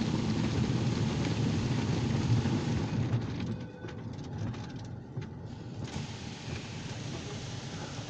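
Car-wash cloth brushes scrubbing against the car, heard from inside the cabin, loud enough to shake the car. The noise drops off sharply about three and a half seconds in and goes on more quietly.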